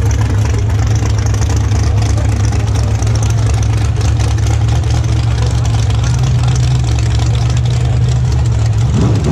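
Drag race car engine idling loud and steady with a deep rumble, then starting to rev up near the end.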